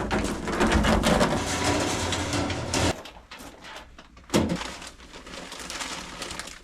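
Scraping and rustling of bins and gear being moved about, loudest for the first three seconds, with a sharp knock about four seconds in.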